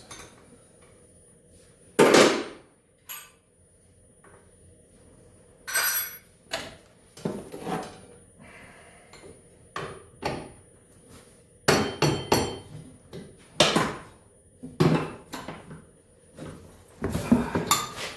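Irregular sharp metal clanks and knocks of hand tools striking and working on the metal parts of a 1989 Arctic Cat Jag snowmobile during teardown, a dozen or so strikes spread out with short gaps, the loudest about two seconds in.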